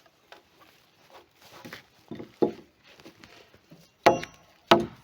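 A tool striking wood: a few soft knocks, then two sharp, loud blows about half a second apart near the end, the first with a brief ringing tone.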